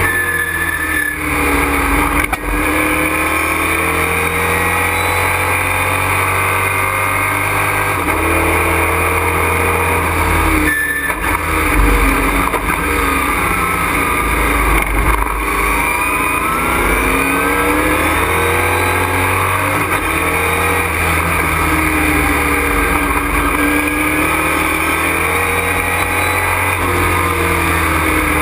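Racing truck's engine heard from inside the cockpit, pulling hard and dropping back over and over as the revs climb and fall with gear changes and braking, with short breaks in the engine note about a second in and near the middle.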